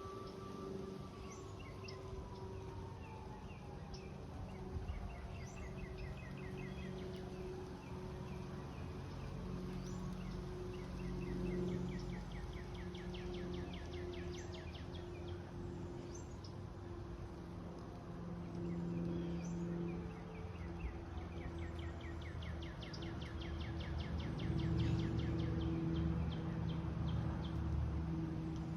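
Outdoor ambience: small birds trilling and chirping again and again over a steady low hum. In the first ten seconds a faint distant siren slowly wails down and then back up.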